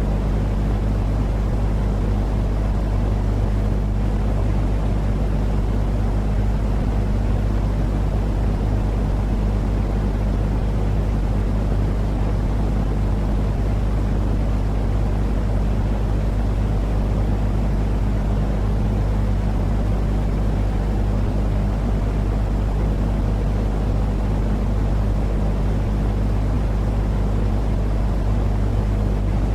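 Continuous sleep-noise track: an unchanging low rumbling noise with a steady low hum underneath, much stronger in the bass than in the treble.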